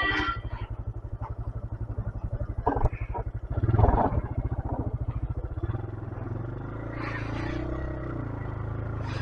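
125cc motorcycle engine chugging at low revs over rough ground, with a few rattles about three to four seconds in, then running more smoothly as the revs rise and fall.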